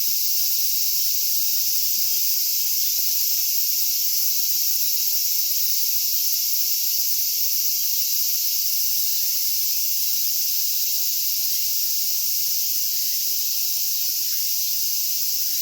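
Cicadas in a dense chorus: a steady, high-pitched hiss that holds unbroken.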